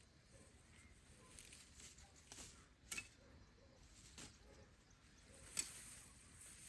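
Near silence with faint rustling and two sharp soft clicks, one about halfway through and one near the end.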